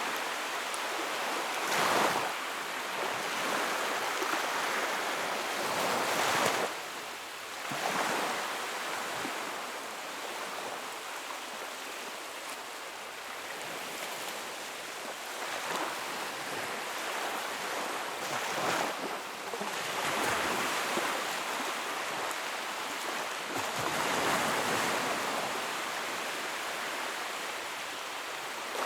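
Fire burning in a fireplace: a steady rushing of flames that swells every few seconds, with only the odd faint crackle.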